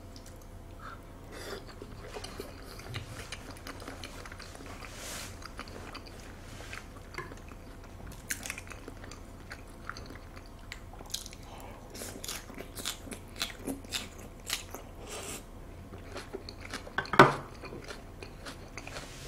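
Close-up eating sounds: a man chewing soft raw salmon, then biting and chewing crisp lettuce, giving many short crunches through the second half. One louder short knock comes near the end.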